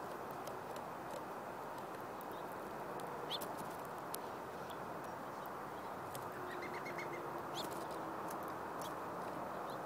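Small birds at a seed feeder: a few brief chirps and a quick run of about five short notes near the end of the middle, with scattered sharp clicks, over a steady background hiss.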